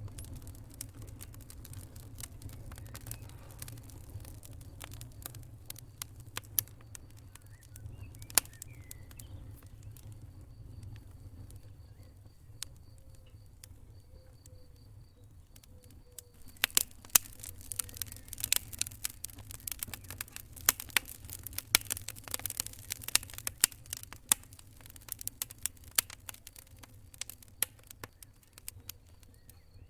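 Wood fire crackling over a low, steady rumble of flames, with sharp pops that come sparsely at first and then thick and fast in the second half.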